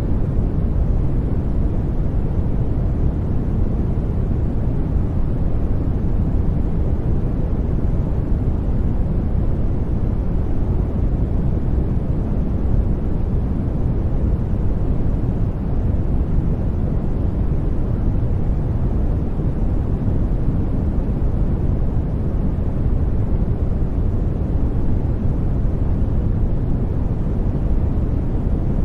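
Steady sleep-noise track: an even, unbroken hiss weighted heavily toward the low end, so it sounds like a deep rumble rather than a bright hiss.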